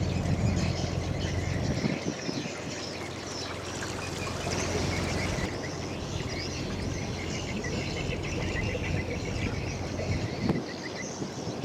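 Birds chirping over a steady outdoor hiss, with a low engine hum that fades out about two seconds in.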